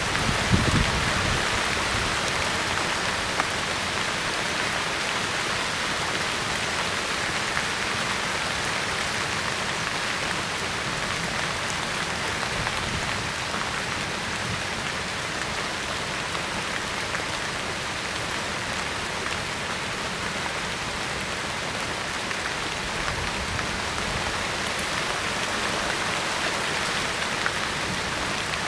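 Steady rain falling: an even hiss of rain on the ground and leaves.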